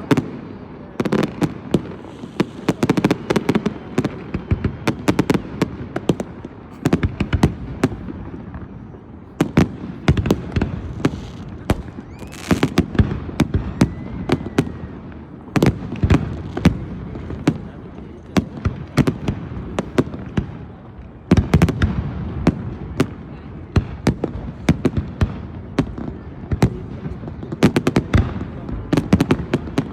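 Fireworks going off: a dense, irregular run of sharp cracks and bangs over a steady low rumble, with a brief lull about two-thirds of the way in.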